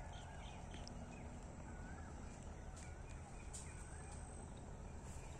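Quiet outdoor ambience with a few faint, scattered bird chirps.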